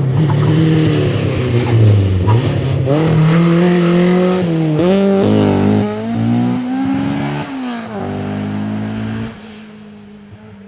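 Rally car engine at full effort, its pitch climbing and dropping repeatedly as it accelerates and shifts gears through the stage. The sound falls away sharply near the end.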